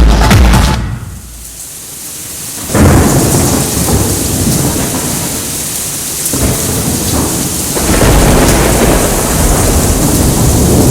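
Thunder during a rainstorm: after music fades about a second in, a sudden thunderclap breaks almost three seconds in and rolls on in a long low rumble, swelling again near the end, over steady rain.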